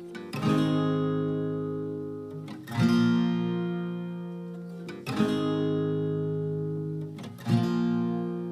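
Background music: an acoustic guitar strums a chord about every two and a half seconds, each chord ringing out and fading before the next.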